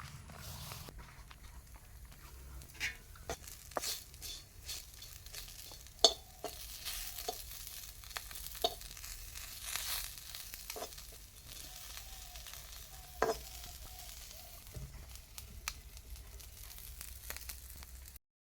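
Small fish frying in hot oil, a steady sizzle with scattered clicks and scrapes of a utensil against the pan as they are stirred; the sharpest knocks come about six and thirteen seconds in.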